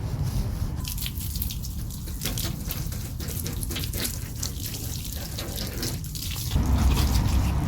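Water spraying and splashing on a car during a wash, with a steady low rumble underneath; the splashing eases near the end.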